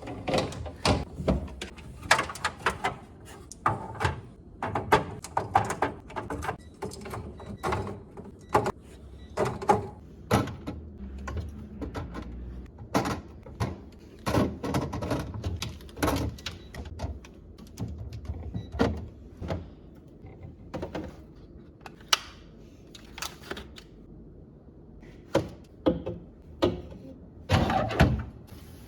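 Irregular knocks and clunks of containers, jars and refrigerator shelves and drawers being handled, set down and slid into place while a fridge is cleaned and organized.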